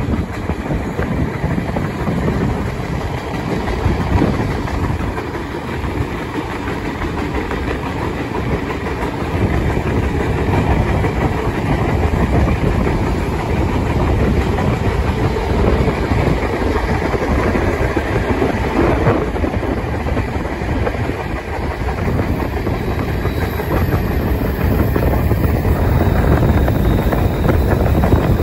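Steam-hauled passenger train running at speed, heard from an open carriage window: steady rumble and clatter of the wheels on the rails. A faint high-pitched wheel squeal comes in near the end as the train takes a curve.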